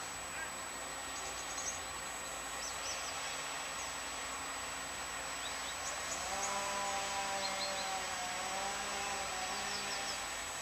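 Outdoor background noise with scattered short bird chirps. About six seconds in, a steady, slightly wavering pitched hum joins, from a source that cannot be identified.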